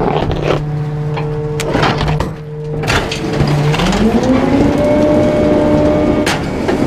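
Garbage truck's diesel engine running low, then revving up smoothly about four seconds in and holding at the higher speed, as it does to drive the packer hydraulics. A few sharp knocks and cracks sound over it.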